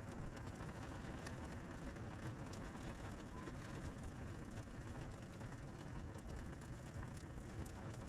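Wood fire in a crib-stacked (log-cabin) campfire, burning with a steady low rush and scattered faint crackles and pops.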